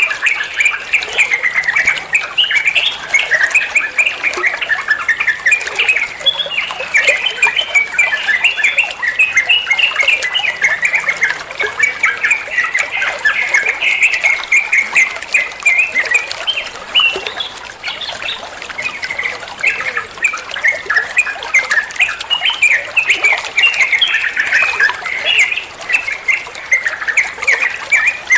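Yellow-vented bulbul (trucukan) song: a dense, unbroken stream of quick, high chirps and trills in the rapid 'ropel' style.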